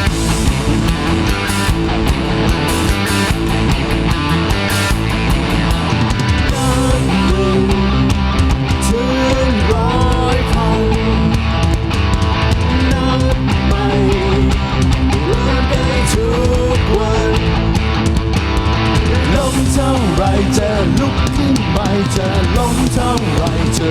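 A rock band playing an instrumental break with drums, bass and distorted electric guitar. From about six seconds in, a lead guitar line bends its notes up and down.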